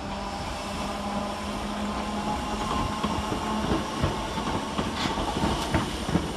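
Merseyrail Class 508 electric multiple unit moving through the station: a steady electric hum that drops away about halfway through, then wheels clicking over rail joints.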